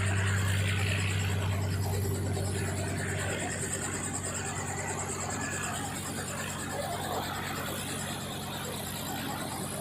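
An engine running steadily, a low hum with a high whine above it; the low hum drops off about three seconds in.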